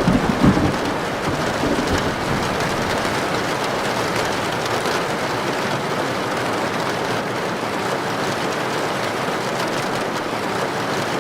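Heavy rain drumming steadily on a tin (metal) roof. A short low rumble of thunder comes in the first second, then the rain goes on alone.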